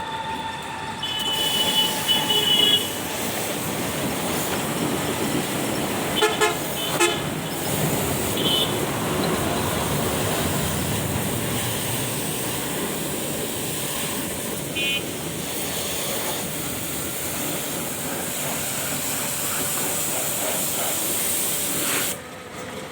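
Steady loud rushing noise, starting about a second in and cutting off abruptly near the end, with several short vehicle horn toots over it.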